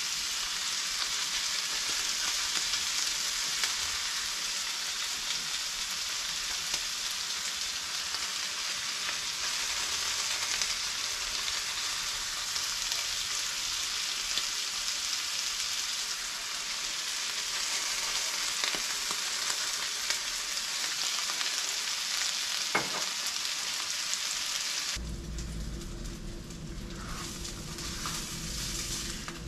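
Spotted sea trout fillets and vegetables sizzling steadily in oil in a cast-iron skillet. Near the end the sizzle cuts off and a quieter low hum takes over.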